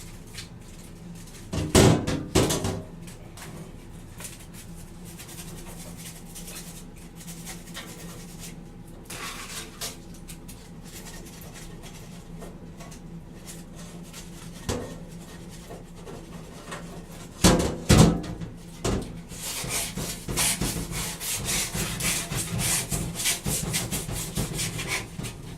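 Coke-soaked aluminum foil scrubbing rust off a chrome exhaust pipe, with rapid back-and-forth rubbing strokes through the last few seconds. A couple of knocks come about two seconds in and again about two-thirds of the way through, over a faint steady low hum.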